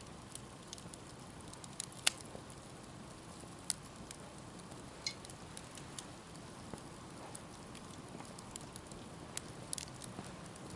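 Wood campfire burning with a soft steady hiss and scattered sharp pops and crackles, the loudest about two seconds in.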